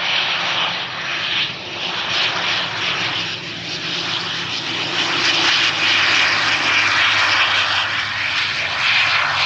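Engines of a Loganair airliner coming in to land, a steady loud rushing noise over a low hum that grows a little louder after the middle.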